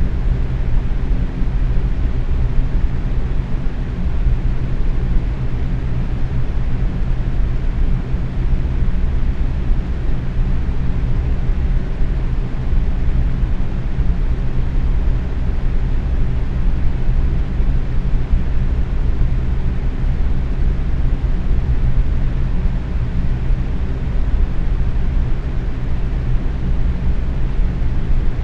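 Box fan running steadily at medium speed: an even rush of air with a low hum underneath.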